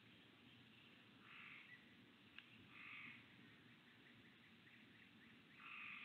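Faint wild birds calling: three short rasping calls about a second and a half apart, with a few tiny chirps between them and a single light click.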